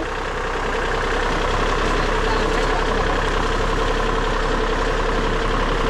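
Tractor engine running steadily in an unbroken drone.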